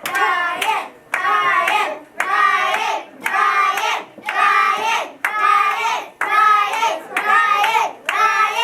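Children chanting a short call in a steady rhythm, about one a second, with hand claps on the beat.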